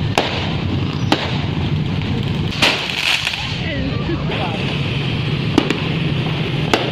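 Fireworks going off: about five sharp bangs, the biggest near the middle trailing into a crackle, over a steady hubbub of crowd voices.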